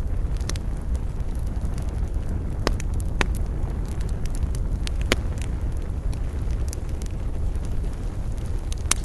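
Wood campfire burning: a steady low rumble of flames with scattered sharp crackles and pops, a few louder ones about three, five and nine seconds in.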